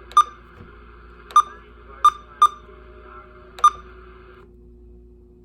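Bearcat 980 SSB CB radio beeping at key presses while its menu is stepped through: five short, sharp beeps at one pitch, irregularly spaced, over a faint hiss that cuts off about four seconds in.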